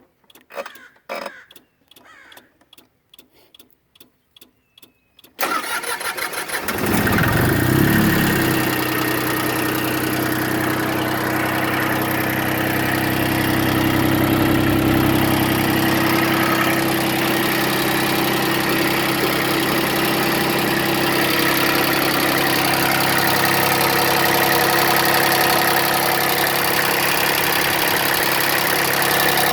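Iseki Landhope 140 compact tractor's three-cylinder diesel being started: a few faint clicks, then about five seconds in the starter cranks briefly and the engine catches within a couple of seconds. It settles into a steady idle.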